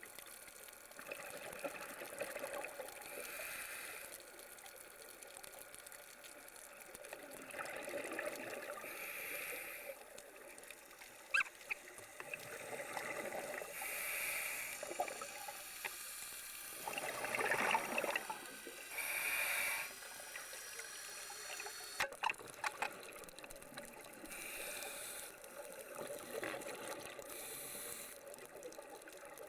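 Underwater sound of a scuba diver breathing through a regulator: a hiss with each inhale and a bubbly gurgle with each exhale, repeating every few seconds, with a few sharp clicks.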